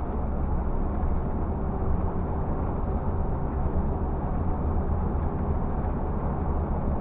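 Scania bus driving along the road, heard from inside: a steady low engine drone with road noise.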